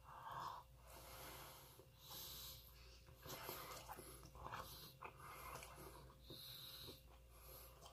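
Faint chewing of a soft piece of shrimp-stuffed tofu, with soft breaths through the nose about once a second and a few small mouth clicks.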